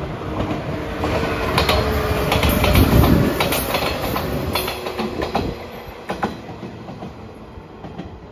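JR 115-series electric multiple unit passing close by, its wheels clicking over rail joints in quick runs; the noise swells to its loudest about three seconds in, then fades as the train moves away.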